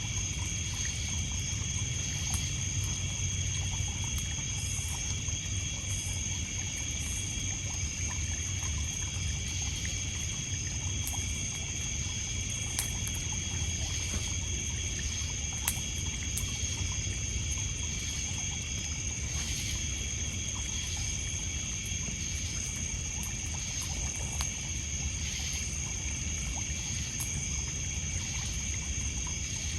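Insects trilling in steady high-pitched tones, a wood fire crackling with scattered sharp pops, and water splashing on a pebble shore underneath.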